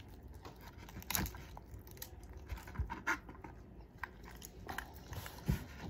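Close-up eating sounds: biting and chewing on seafood, with scattered short clicks and crunches; the louder ones come about a second in, around three seconds in, and near the end.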